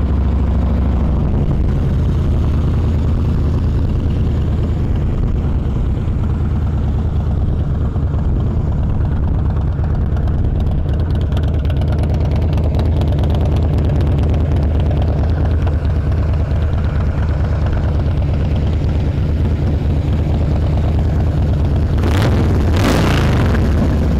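A 2015 Harley-Davidson Softail Deluxe's fuel-injected 103-inch Twin Cam V-twin idles steadily through Vance & Hines slip-on mufflers, with two quick throttle blips near the end. The engine runs mechanically quiet, like a brand-new bike.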